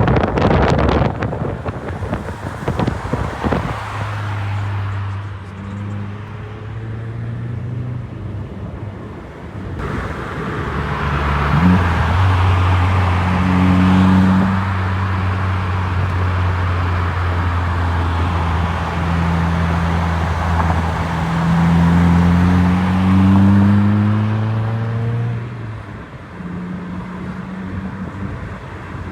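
2025 Subaru WRX's turbocharged 2.4-litre flat-four running through a newly fitted aftermarket catback exhaust, its note climbing in pitch about twelve seconds in and again near the end before falling back. A loud rushing noise fills the first few seconds.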